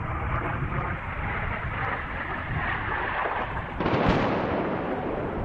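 Jet aircraft rumble, loud and steady, with a sudden louder blast about four seconds in that fades away.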